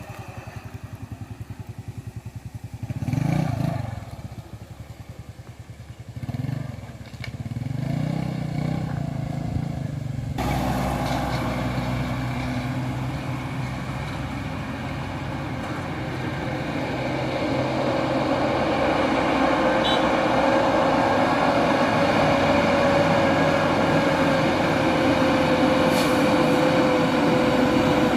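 Heavily loaded dump truck diesel engines passing in turn: a steady low rhythmic engine pulse with two brief swells, then about ten seconds in a louder engine and drivetrain sound with a slowly falling whine that grows louder toward the end.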